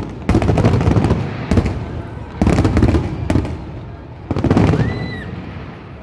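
Aerial fireworks shells bursting overhead in quick succession, about five loud booms with crackling, dying down near the end.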